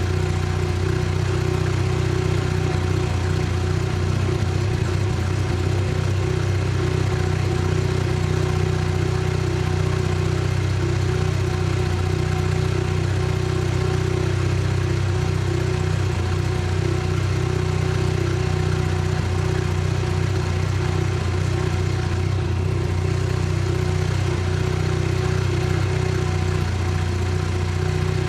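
Mazda RX-7 FC3S's turbocharged twin-rotor rotary engine idling steadily, its pitch holding level with no revving.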